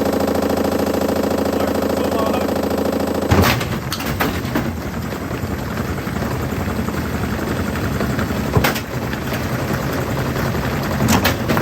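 LG washing machine running with a steady hum and a fast rattle, then a sharp loud bang about three seconds in, after which it clatters and knocks unevenly, with two more loud bangs later.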